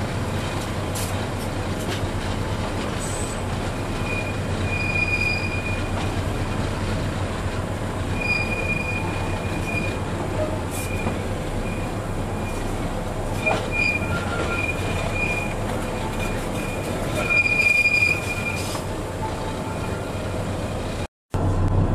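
Tramway du Mont Blanc metre-gauge rack-railway train running with a steady low rumble, its wheels squealing in short high-pitched spells several times. The sound cuts out for a moment near the end.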